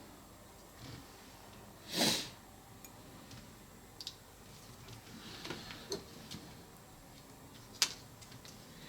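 Small hand-work noises while working epoxy and fiberglass on a plastic trim panel: a short hiss-like rush about two seconds in, a few soft scrapes and taps, and one sharp click near the end.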